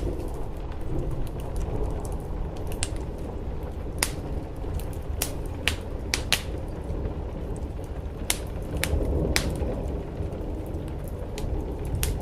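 Wood fire crackling in a fireplace, with irregular sharp pops, over a steady low rumble of rain on a roof.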